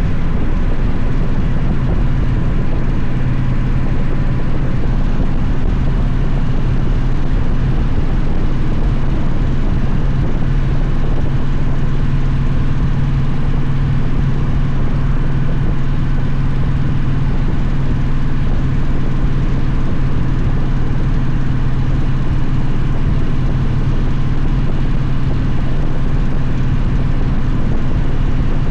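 Victory motorcycle's V-twin engine running at a steady cruise, its pitch holding level throughout.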